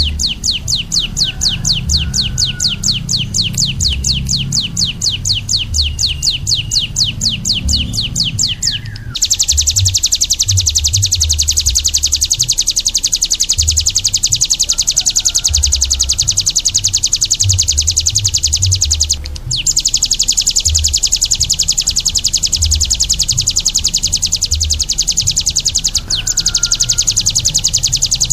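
Small songbird singing: fast repeated high chirps, about eight a second, then about nine seconds in a continuous very rapid high trill that breaks off briefly twice. An irregular low rumble runs underneath.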